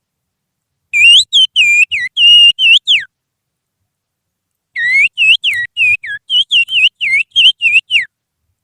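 A person whistling through the little fingers in imitation of the oriental magpie-robin's (kacer) song. There are two phrases of quick, swooping whistled notes, each about two seconds long and each ending on a falling note.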